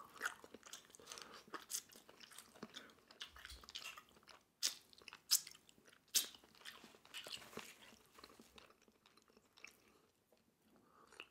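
Close-miked chewing and wet mouth sounds of eating steamed clams, with scattered sharp clicks and smacks, fading to near silence for the last few seconds.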